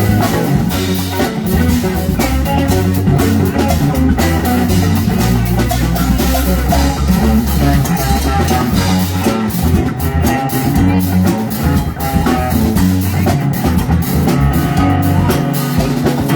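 Live rock band playing an instrumental passage with no vocals: electric guitar, bass guitar and drum kit.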